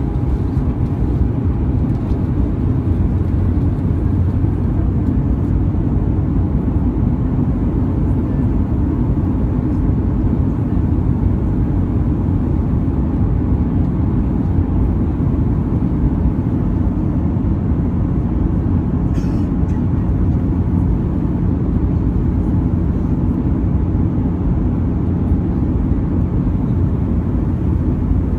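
Steady cabin noise of an Airbus A320-214 in flight: the deep, even rumble of its CFM56 engines and rushing air, with faint steady tones above it. A faint click sounds about two-thirds of the way through.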